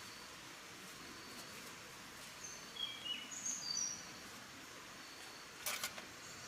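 Birds chirping in a quick run of short whistled notes over a steady forest background hiss, with a sharp click or snap near the end.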